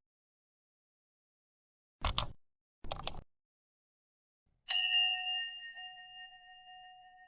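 Two short sharp noises about a second apart, then a single chime struck once near the end, ringing with a clear bell-like tone that fades out slowly.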